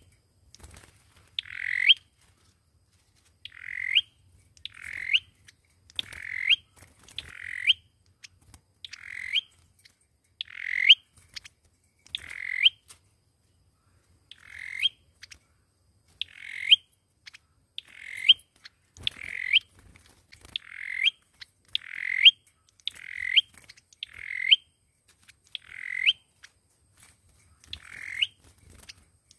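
A sâu dừa bird giving short, rising calls over and over, about one a second, each ending in a sharp upward note, with a brief pause near the middle. It is a lure call of the kind played to draw the bird in for trapping.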